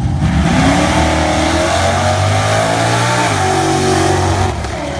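Drag car on an 80 shot of nitrous accelerating hard down the strip, its engine rising in pitch, dropping at an automatic gear change about three seconds in, then climbing again before fading near the end.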